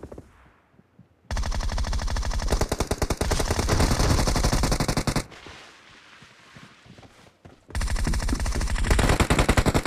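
Automatic gunfire in a shooter video game: two long bursts of rapid, evenly spaced shots, the first starting about a second in and stopping about halfway, the second starting near the end.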